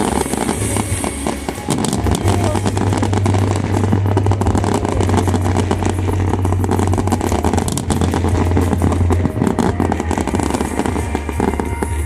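A dense barrage of aerial fireworks bursting, with rapid overlapping bangs and crackling over a continuous low booming rumble.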